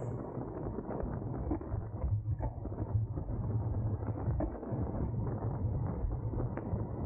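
Steady rush of wind and road noise from a road bike ridden at race speed, with many small clicks and creaks from the bike.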